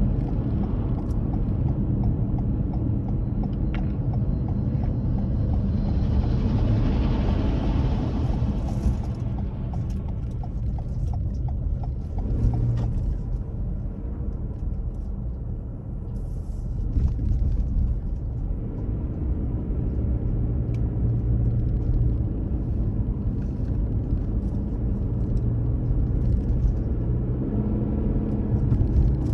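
A car driving on the road: steady low rumble of engine and tyres, with a rushing swell of hiss around seven seconds in.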